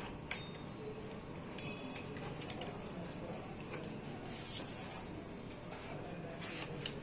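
Faint handling of the laptop's paper manual and packaging: a few light clicks and a brief paper rustle about four and a half seconds in.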